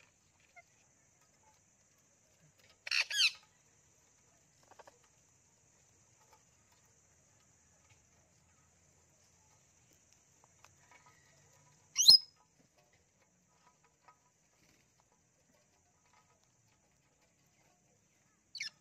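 A parrot giving three short, high-pitched squawks several seconds apart: one about three seconds in, the loudest around the middle, and a brief one at the very end.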